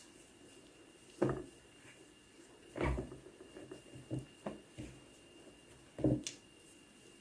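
Half a dozen soft knocks and bumps of kitchen handling, bowls or utensils set down and moved, spaced irregularly over faint room tone.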